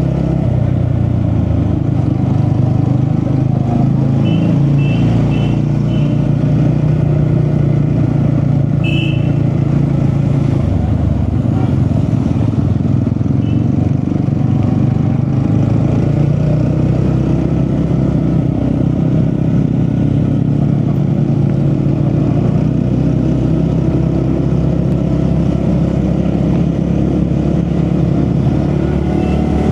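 TVS Ronin single-cylinder motorcycle engine running steadily under way, with its note shifting about ten seconds in.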